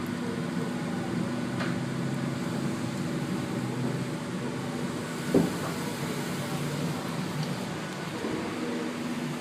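Inside a Sydney Trains K-set double-deck electric train carriage: a steady low hum from the train, with a small click early and a sharper knock about five seconds in.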